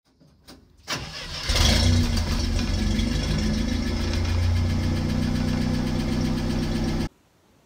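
International Scout 800 engine starting: a brief crank about a second in, then it catches and runs at a steady idle until the sound cuts off abruptly near the end.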